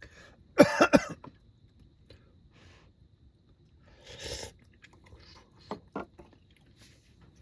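A man coughs twice in quick succession, loud, about half a second in. Later come a short breathy burst and two light clicks.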